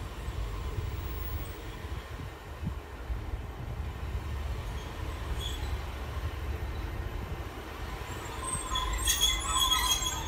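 Diesel multiple unit running slowly into a station with a steady low rumble. Near the end it gives a high squeal from the wheels and brakes as it slows to stop.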